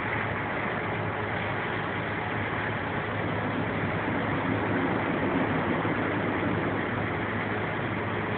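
A vehicle engine idling steadily, a constant low hum under a wash of noise that swells slightly midway.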